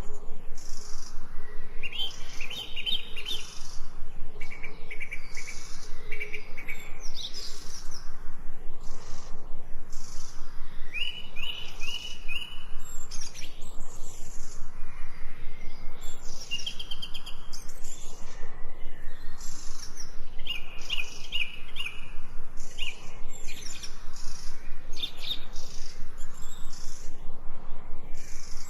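Songbirds chirping and singing: many short chirps and quick trills that overlap without a break.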